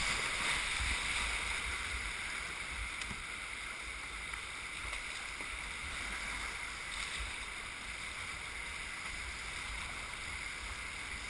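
Steady rush of river whitewater heard from a kayak, a little louder in the first second or two.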